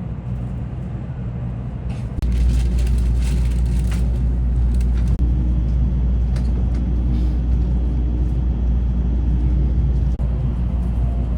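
Shinkansen N700 bullet train running, a steady low rumble with a faint steady whine, stepping up to a louder level about two seconds in.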